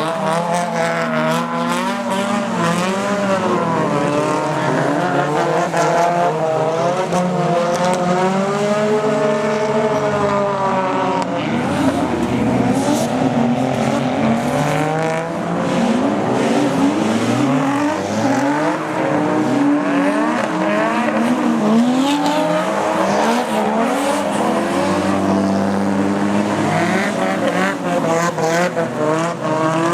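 Drift cars' engines revving hard and rising and falling in pitch over and over, with several engines overlapping, and tyre squeal from cars sliding on a wet track.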